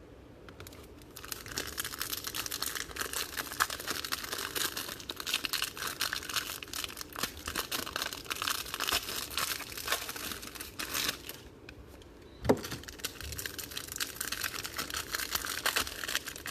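Plastic wrapping on a box of trading cards crinkling and tearing as it is pulled open, with a lull and one sharp knock about twelve seconds in before the crinkling resumes.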